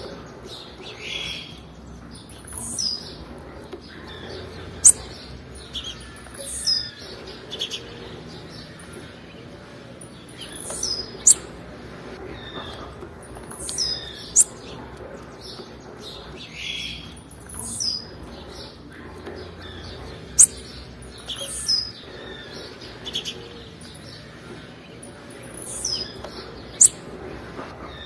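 Female blue-black grassquit (tiziu) calls: short, thin, very high chips repeating every second or two, some sharper and louder than others.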